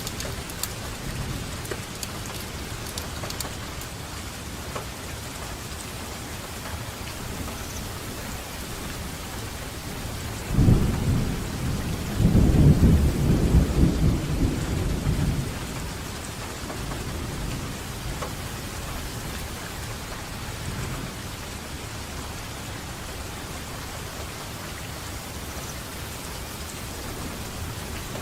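Steady rainfall with a roll of thunder about ten seconds in. The low rumble swells for about five seconds, then fades back into the rain.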